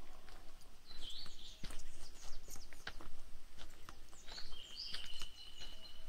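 Forest birds singing, with quick high chirps and clear whistled notes, including a long steady whistle near the end. Footsteps crunch on a dirt trail underneath.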